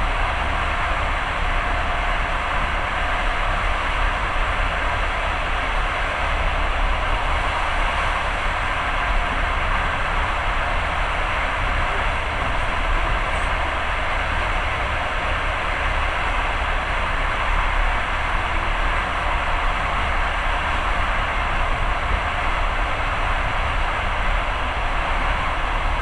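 Steady rumble and rushing noise of a passenger train running at speed, heard from inside the carriage, with a deep low rumble under the even roar.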